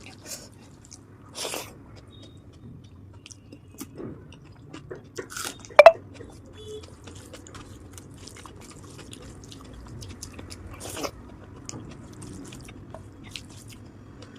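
Close-up eating sounds: wet chewing and lip smacks from a mouthful of rice and mashed potato, in scattered soft clicks. One sharper, louder click comes a little before the middle.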